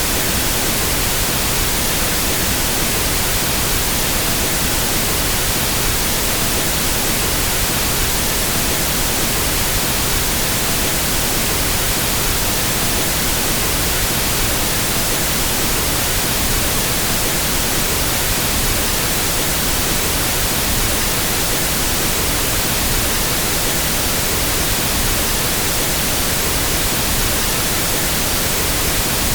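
Pink noise test signal for equalizing sound systems: a steady, even hiss that does not change.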